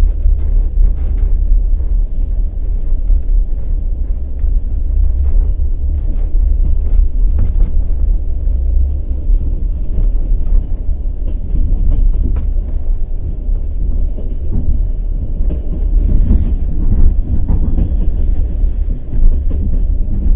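Passenger train running at speed: a steady heavy rumble with repeated knocks of the wheels clattering over rail joints. A brighter hiss joins in from about three-quarters of the way through.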